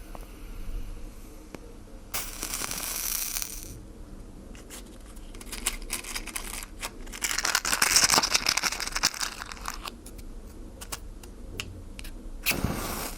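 Water hitting a fire, hissing and crackling in three bursts: a short one about two seconds in, a longer, louder one in the middle full of sharp crackles, and a brief one near the end.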